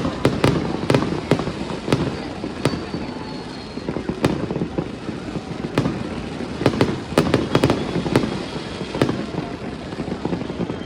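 Fireworks display going off: a dense, irregular series of sharp bangs and crackles over a steady rumble.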